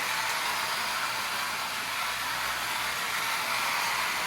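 RC drift car sliding sideways across a hard basement floor: a steady rushing hiss from its tyres scrubbing on the floor.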